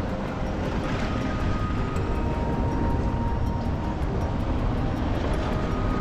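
Steady low rumble of a moving vehicle with road noise, holding a constant level, with a faint whine on top.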